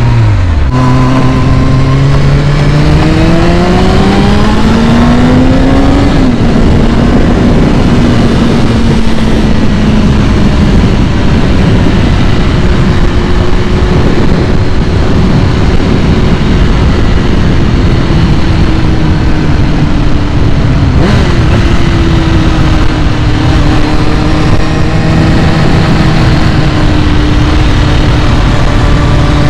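2001 Kawasaki ZX-6R's carbureted inline-four engine running loud, its revs climbing steadily for several seconds, then dropping sharply about six seconds in and holding fairly steady. There is another brief dip about 21 seconds in, and the revs rise again near the end.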